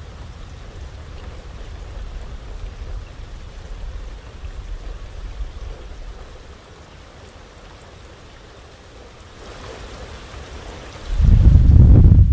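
Steady heavy rain with a low rumble beneath it. Near the end a loud clap of thunder breaks in suddenly and rolls on.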